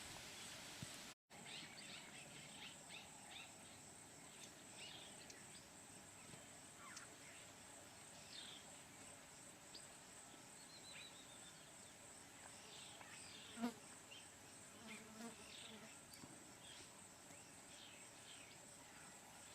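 Faint ambience of the African bush: a steady high-pitched insect drone, with many short, scattered bird chirps and one brief louder call about two-thirds of the way through.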